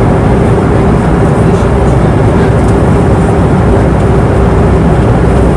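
Steady cabin noise of an airplane in flight: an even rush of air and engine noise, heaviest in the low end, with a faint steady hum running through it.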